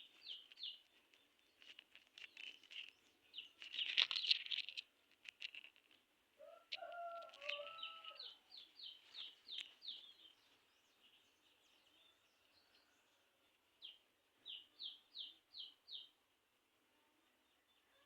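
Birds chirping in quick runs of short, high notes, four or five at a time, with a lower call from another bird about seven seconds in. A brief burst of noise comes about four seconds in.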